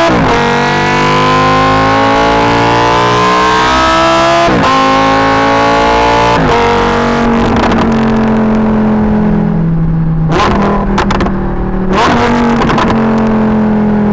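The naturally aspirated 5.2-litre V10 of a Lamborghini Huracan EVO, heard right at the exhaust, accelerating hard. Its pitch climbs and falls back at each of two upshifts, then it holds a steadier, slowly falling note, with a few sharp exhaust crackles near the end.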